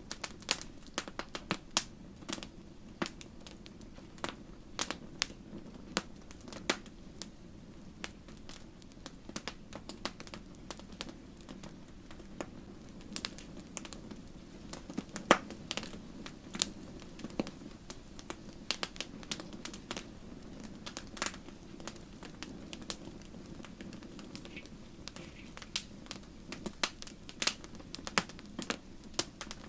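Wood campfire crackling and popping: irregular sharp snaps, several a second, over a steady low rush of the burning fire.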